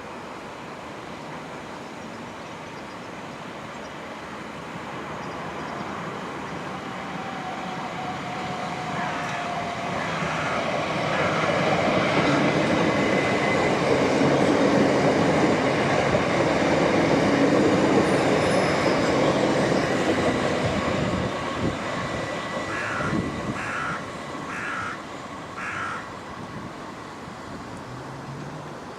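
A train passing: its rumble builds over several seconds, stays loud for about eight seconds, then fades away. A few short calls follow near the end.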